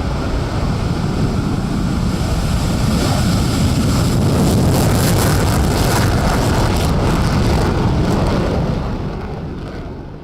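Jet noise from an F-35A Lightning II's F135 turbofan on takeoff: a loud rushing sound that builds to a crackling peak in the middle, then fades away toward the end.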